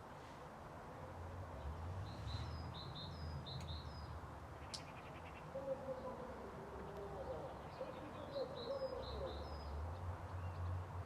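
Faint birdsong: two short runs of high chirping phrases, with a lower wavering call in between, over a steady low rumble.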